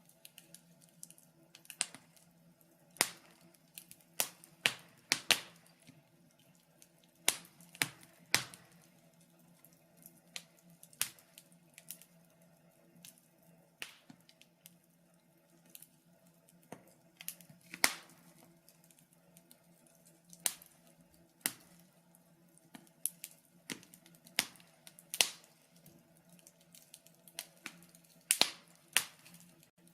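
Wood fire crackling: sharp irregular pops and snaps, several loud ones spread through, over a faint steady low hum.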